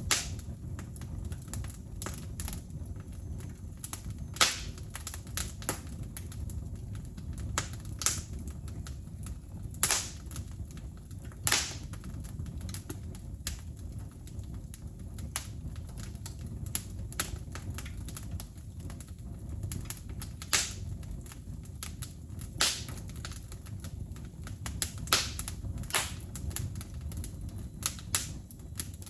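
Wood fire crackling, with irregular sharp pops and snaps over a low steady rustle of burning.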